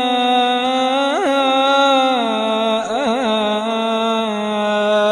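Quran recitation: a single voice holding one long drawn-out vowel in melodic chant, with quick ornamental turns about a second in and again about three seconds in, and a step down in pitch about two seconds in.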